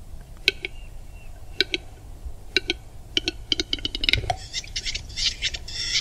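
Bird calls: short, sharp notes, a few spaced apart at first, then a fast run of chattering notes from about four and a half seconds in. A low, steady rumble sits underneath.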